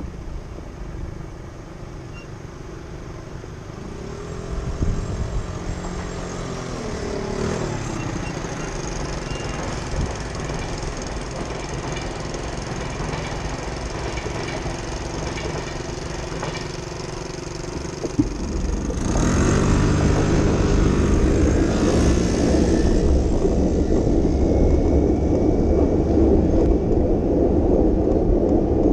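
Street traffic passing close: a motor vehicle goes by with a falling pitch a few seconds in. About two-thirds of the way through, a louder engine comes close and stays, adding a dense low rumble.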